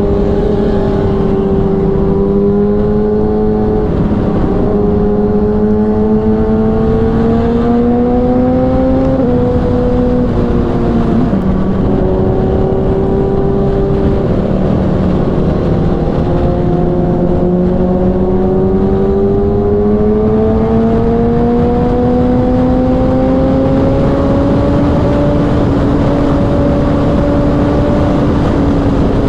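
Kawasaki ZX6R inline-four sportbike engine with a Racefit Growler exhaust, heard from on board over wind and road noise at highway speed. Its pitch climbs slowly as it pulls in a high gear, drops back around ten seconds in, then climbs again and levels off near the end.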